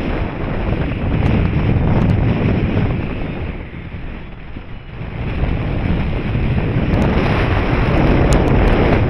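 Wind noise from the airflow rushing over the microphone during a paraglider flight. It is loud and gusting, eases off about halfway through, then builds again.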